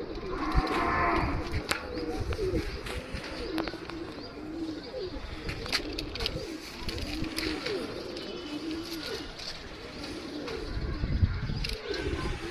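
Domestic pigeons cooing, many short overlapping coos throughout, with scattered light clicks and knocks.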